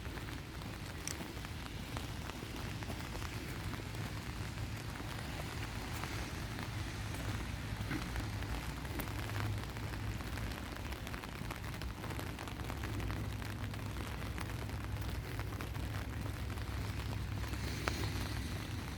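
Steady rain falling, with many small drops pattering and ticking on surfaces close by, over a low rumble.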